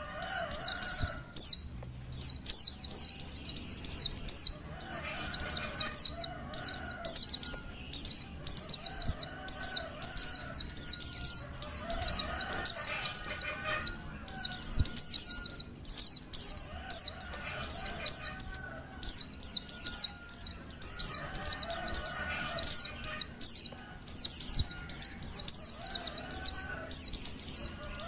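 Female white-eye (pleci) calling. Bursts of rapid, high-pitched chirps, each burst a second or two long, repeat with short pauses. It is the female's call used as a lure to get male white-eyes singing.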